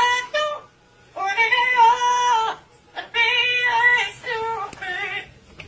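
A parrot singing a melody in a high, human-like voice. A short phrase comes at the start, a longer one about a second in, and another from about three seconds in that runs almost to the end, with brief pauses between them.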